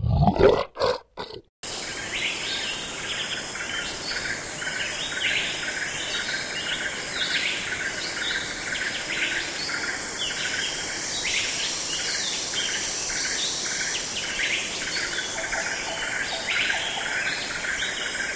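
A few short low grunts in the first second or so from a brown bear, then a dense chorus of birds chirping over a steady high hiss.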